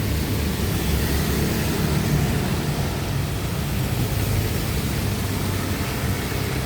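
Steady street ambience in the rain: a low hum of passing traffic engines under an even hiss of rain.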